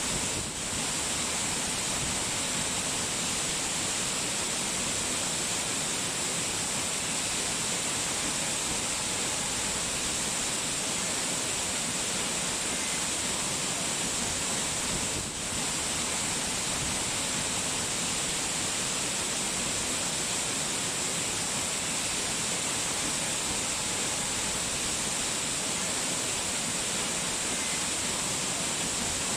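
Steady hiss of falling water, even and unbroken, dipping briefly about half a second in and again about halfway through.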